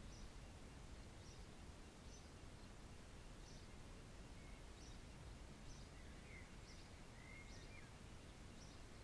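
Near silence: faint outdoor background hiss with a distant bird giving short high chirps about once a second, and a couple of brief faint whistles about six and seven seconds in.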